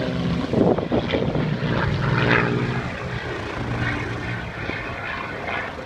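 Propeller aircraft engines in flight: the drone of Spitfires' Rolls-Royce Merlin V12s, a steady pitched hum that swells during the first couple of seconds and then eases slightly.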